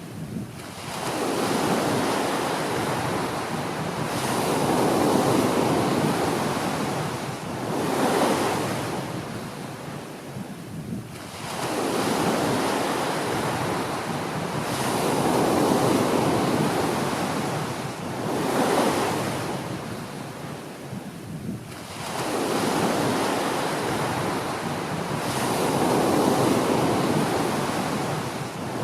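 Small waves breaking on a beach, each one rushing in and washing back, swelling and fading about every ten seconds, three times over.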